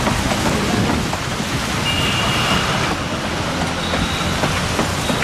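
Narrow-gauge (914 mm) passenger coaches rolling past on curved track: a steady rumble of wheels on rails with scattered clicks, and a brief high squeal about two seconds in.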